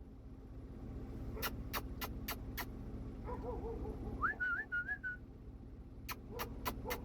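A short whistle about four seconds in that swoops up and then wavers at one pitch, with runs of sharp clicks, several a second, before and after it.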